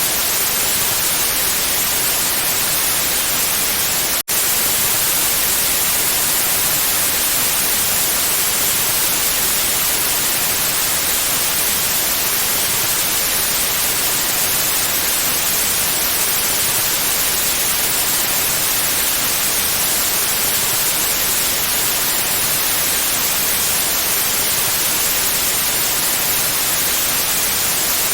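Pure white noise: a steady, even hiss, brightest in the high end, broken once by a split-second dropout about four seconds in.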